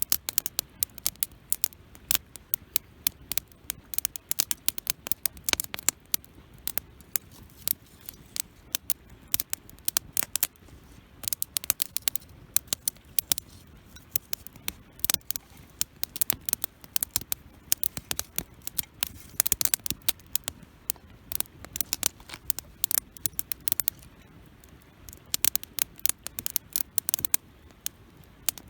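Wood campfire crackling, with frequent irregular sharp pops over a soft hiss.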